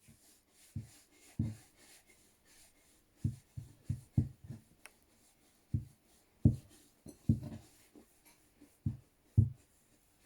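Someone writing by hand on a board, with a dozen or so short, soft knocks and faint scratching of the strokes.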